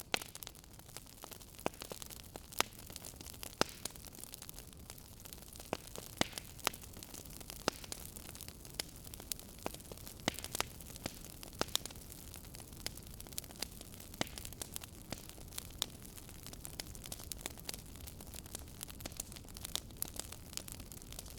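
Fireplace fire crackling: irregular sharp pops and snaps, several a second and of varying loudness, over a steady soft hiss of burning.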